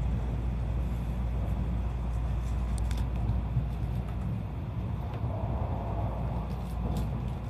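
Tokaido Shinkansen passenger car running along the track, heard from inside the cabin: a steady low rumble with a few faint clicks.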